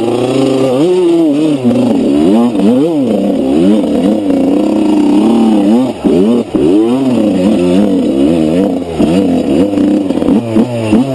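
Dirt bike engine ridden off-road, revving up and down over and over, its pitch rising and dropping about once a second as the throttle is opened and closed.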